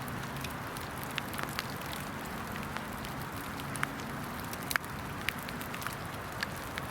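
Steady hiss of rain falling in woodland, with a few scattered sharp ticks at irregular intervals.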